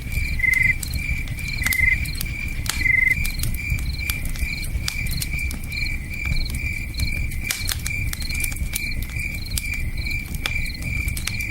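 Crickets chirping in a steady pulsing rhythm, with a second cricket trilling three times in the first few seconds. Campfire crackles and pops come through in scattered sharp snaps. A low rush of flowing river water runs underneath.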